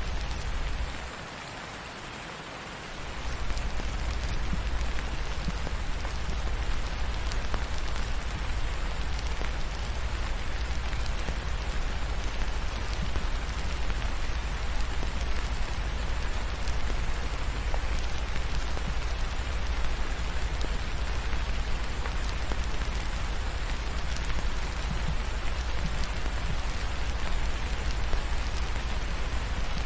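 Steady, heavy rain falling on a surface, an even hiss of drops, over a low rumble that drops away for about two seconds near the start.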